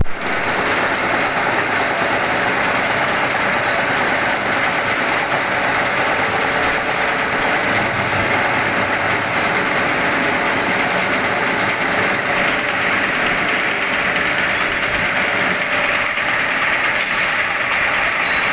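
A metalworking machine running steadily, making a loud, even hiss-laden drone with a faint steady hum, no pauses or changes in pace.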